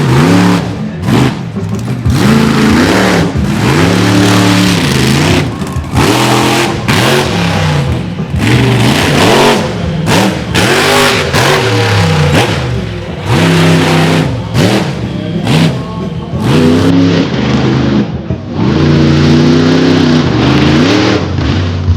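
Monster truck engine revving hard in repeated bursts, its pitch climbing and falling every second or two.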